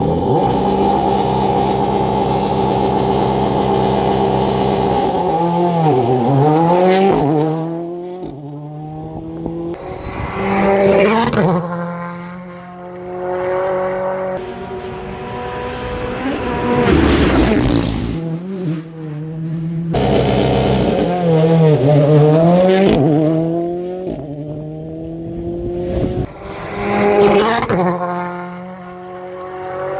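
Rally cars at full speed on a tarmac stage: engines revving hard and swinging up and down in pitch as they brake, change gear and pass close by, several times over, with a loud rushing burst about halfway through.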